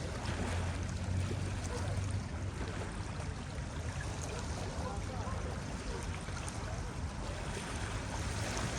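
Ocean surf washing onto a beach: a steady rush of breaking waves over a low rumble, swelling slightly between about half a second and two seconds in.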